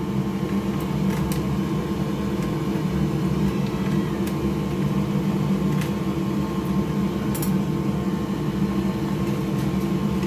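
Steady mechanical hum of a fan or motor running on the workbench, with a few faint small clicks of parts being handled.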